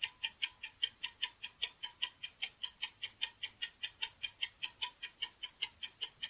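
Rapid, steady clock-like ticking of a countdown-timer sound effect, about five ticks a second, marking the time left to answer.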